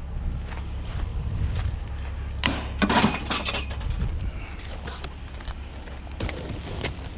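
Knocks and clatter of objects being handled, loudest in a cluster about three seconds in, over a steady low hum.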